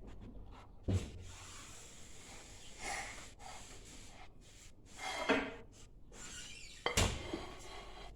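Indoor handling noises: a sharp knock about a second in and another near the end, with softer rubbing and rustling between them.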